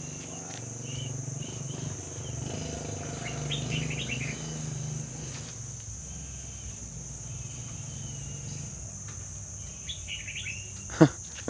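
Birds chirping in two short bursts over a steady high insect drone and a low hum, with one sharp knock about a second before the end.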